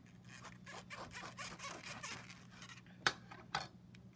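Handling noises as materials are set out on a table: a couple of seconds of irregular rustling and scraping, then two sharp taps about half a second apart, as of objects being put down.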